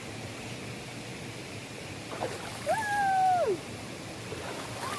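Mountain stream water rushing steadily, with a person's drawn-out exclamation that holds its pitch and then falls, about three seconds in.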